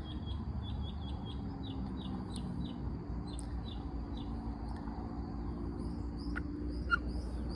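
Birdsong: a run of short, falling chirps, about two or three a second at first and then thinning out. Under it run a steady high insect drone and a low hum.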